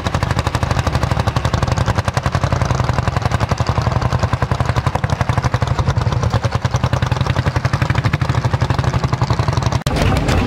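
Vintage tractor engine running with a fast, even knocking exhaust beat. It breaks off abruptly near the end, where a different sound takes over.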